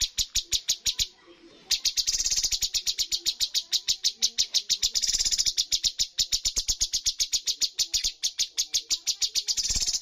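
Cucak cungkok singing its rapid-fire 'shooting' song: a fast, even run of sharp high notes, about eight a second, that breaks off briefly about a second in and then runs on.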